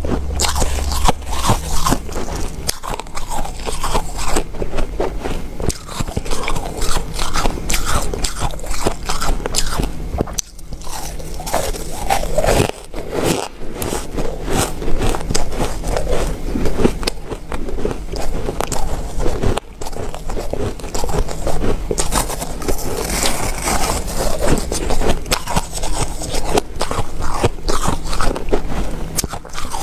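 Close-miked ice being bitten and chewed: dense crunching and crackling, bite after bite, with a few brief breaks where one clip gives way to the next.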